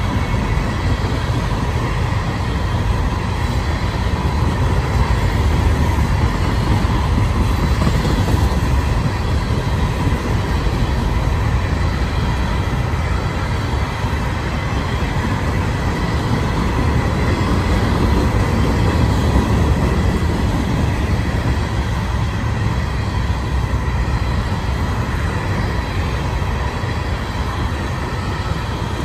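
A freight train of Herzog open hopper cars rolling past: a steady heavy rumble of steel wheels on the rails, with a thin high ring running through it.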